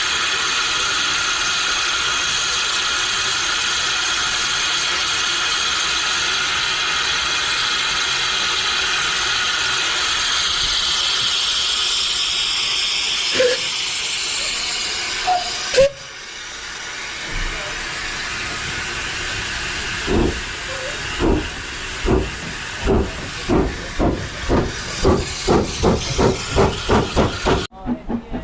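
Steam locomotive blowing off steam with a steady loud hiss; after a sudden break, its exhaust beats start slowly and quicken steadily as it pulls away.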